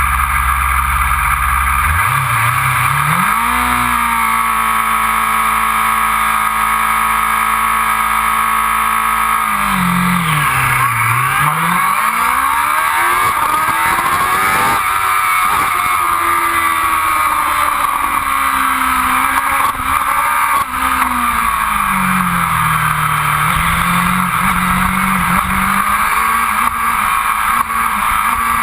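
Racing motorcycle engine at a race start. The revs climb and are held steady for about six seconds at the line, then dip as the bike launches. After that the engine rises and falls repeatedly as it accelerates away.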